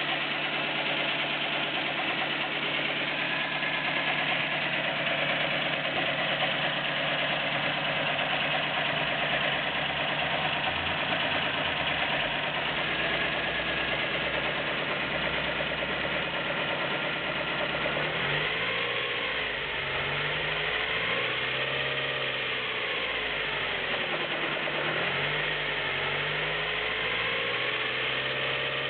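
A Nissan Micra 1.0 16V four-cylinder petrol engine idling steadily. About two-thirds of the way in, its revs rise and fall a few times. A light valve tapping is the only noise the owner says is left after tightening the belts.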